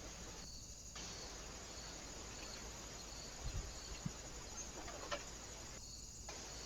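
Steady faint hiss of outdoor ambience through a trail camera's microphone, with a faint high insect chirp repeating about twice a second and a few soft low knocks in the middle.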